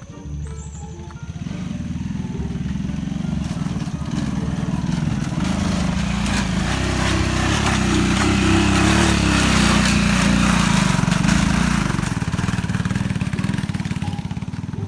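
Small motorcycle engine labouring up a rough trail, struggling with the climb. It grows louder to a peak a little past the middle, then eases off near the end.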